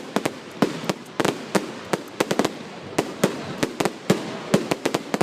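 Fireworks display: a rapid, irregular string of loud bangs, several a second, each followed by a short echo, over a steady background of distant crackling and rumble.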